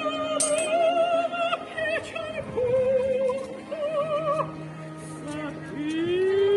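Operatic singing: a high voice holds long notes with a wide vibrato, moving between pitches over a steady sustained accompaniment.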